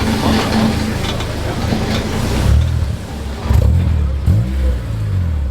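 A car engine running with a low, rough note, blipped up and back down a couple of times in the second half.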